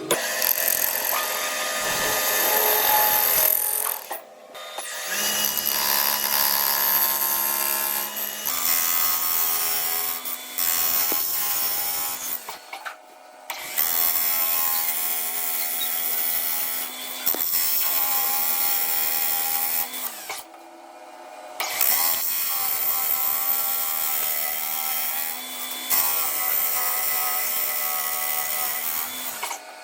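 Machine tool cutting metal, a dense grinding and ringing noise with steady tones. It stops abruptly for a moment several times and starts again.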